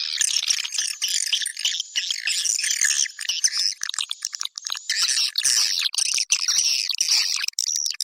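Swiftlet calling-sound recording: a dense, continuous chorus of rapid, high chirping and twittering from many swiftlets, of the kind played to lure swiftlets into a nest house.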